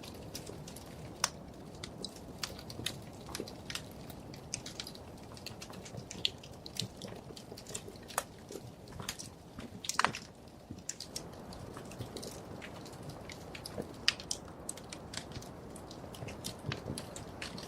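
Wood fire crackling: irregular sharp pops and snaps over a low, steady rumble of burning logs, with one louder pop about ten seconds in.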